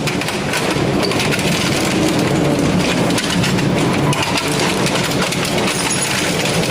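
Heavy shredding machine running with a steady low hum and dense metallic rattling and crunching.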